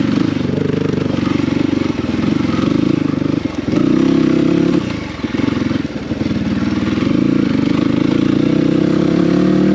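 Dirt bike engine running under load while riding, the throttle easing off briefly about five and six seconds in, then the revs climbing slowly near the end.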